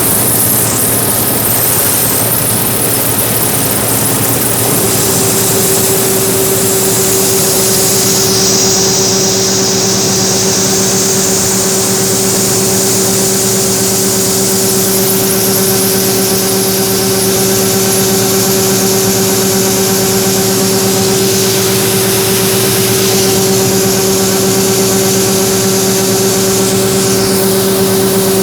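Heavy engine running steadily under constant load, with a steady whine joining in about five seconds in.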